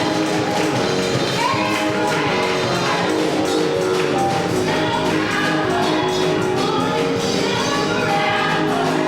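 Gospel choir singing with band accompaniment and a tambourine keeping the beat.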